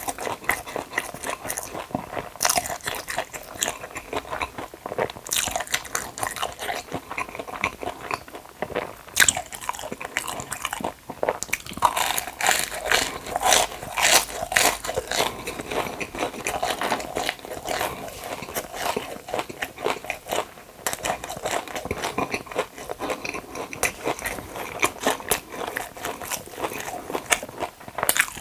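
A person biting and chewing crunchy food close to the microphone, in a dense run of crisp crunches and wet mouth sounds.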